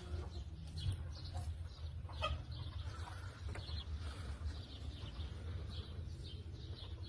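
Chickens clucking quietly in the background, over a steady low hum, with a few light clicks and knocks from handling things.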